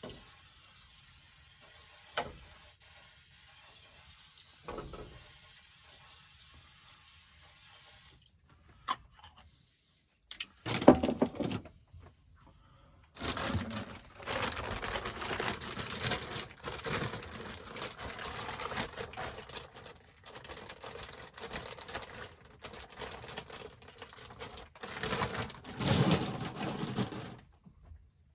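Cooking sounds at a camp stove: a steady hiss for about eight seconds, then, after a few quiet seconds with a couple of knocks, irregular crackling and rustling until near the end.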